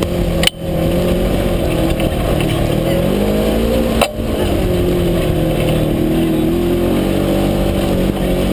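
UTV engine running under way, its pitch wavering and rising a little as the throttle changes. Two sharp knocks come about half a second and four seconds in, each followed by a brief drop in the engine sound.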